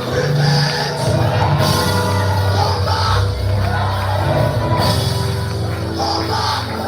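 Live worship music: a band playing with a strong steady bass, and voices singing and shouting along.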